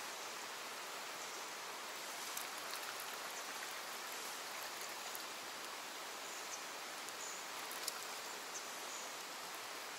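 Steady rain falling on water and the surroundings: an even hiss with a few faint ticks, one a little sharper about eight seconds in.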